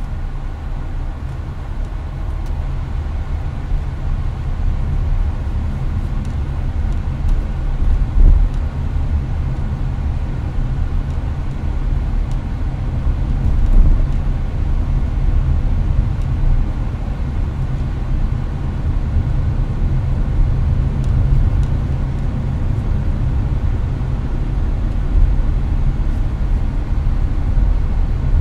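Inside a Hyundai Avante's cabin at highway speed: a steady low road-and-tyre rumble with the air conditioner's fan running, and a couple of small bumps about 8 and 14 seconds in.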